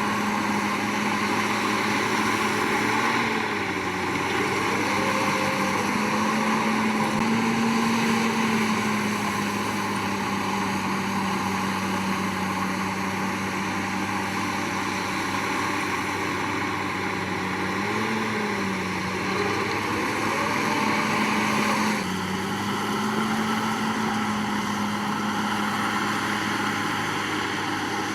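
Komatsu D61PX bulldozer's diesel engine running steadily under work, its pitch swelling up and settling back several times as the load changes.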